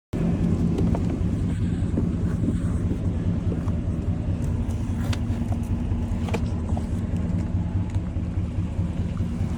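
A vehicle engine running steadily with a low, even hum, and a few faint clicks.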